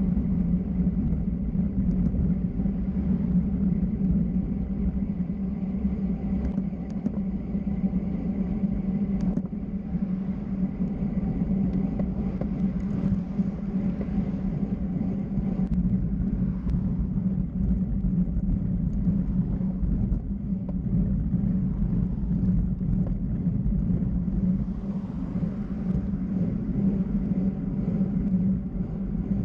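Steady low road rumble and wind noise of fast downhill travel, unbroken throughout.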